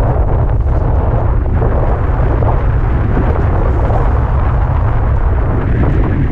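Wind buffeting the camera microphone while riding a bike at speed: a loud, steady low rumble.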